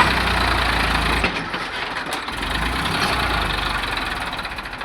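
Tractor engine running, a continuous low engine note that eases briefly about a second in and then picks up again.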